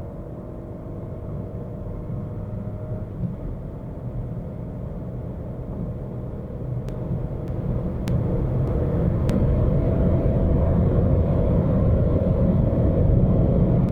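The Ford Fiesta's 1.0-litre turbocharged three-cylinder EcoBoost engine accelerates hard through one gear. Its pitch climbs slowly over a steady rumble of road noise, and it grows louder over the last few seconds.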